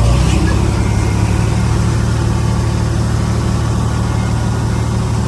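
Heavy diesel engine of earthmoving machinery running at a steady speed, a low even hum.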